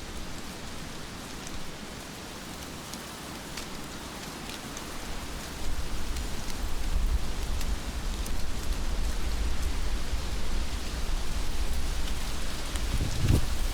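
Heavy rain falling steadily, a dense hiss with scattered drop ticks. A deep low rumble swells about halfway through, and a short dull thump comes near the end.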